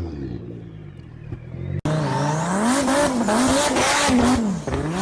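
Sports car engine revving through its exhaust: a rev falls away, then after an abrupt cut the engine is blipped up and down several times, with exhaust crackle over the middle revs.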